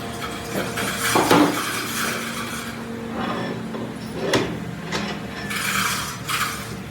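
Hand tools working on metal parts: scraping and rasping strokes with a few sharp knocks.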